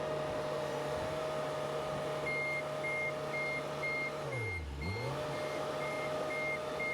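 Excavator engine running as the machine tracks, with its travel alarm beeping about twice a second from about two seconds in. A little past the middle the engine note drops and comes back up within about a second.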